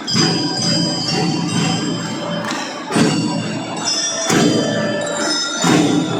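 Drum band playing: a melody rung out on bell lyras over drums, with loud strikes about three, four and five and a half seconds in.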